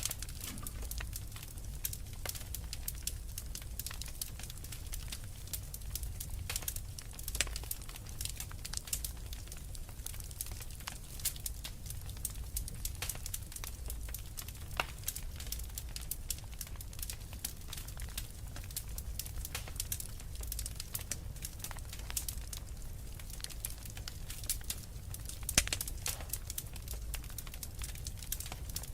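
Wood fire crackling, a steady stream of small pops and snaps with a couple of louder pops, over a low steady rumble.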